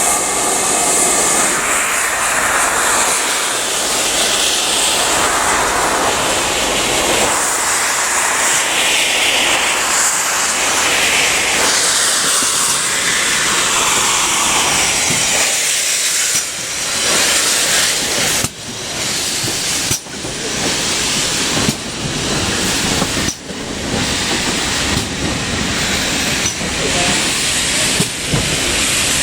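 Steam locomotive, likely a GWR Manor class 4-6-0, with a loud steady hiss of escaping steam. From about halfway, irregular sharp knocks and bangs sound over a lighter hiss.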